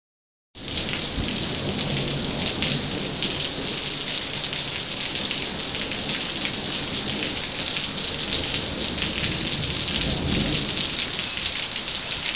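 Heavy rain pouring steadily in a thunderstorm, with low rumbles swelling about a second in and again around ten seconds in.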